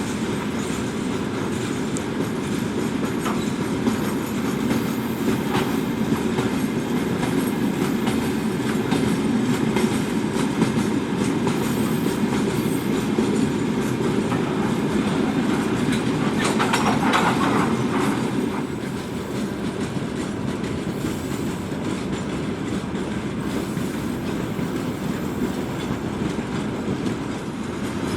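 Freight train wagons rolling past at speed: a steady heavy rumble with wheels clattering over the rail joints, and a brief higher-pitched squeal about seventeen seconds in.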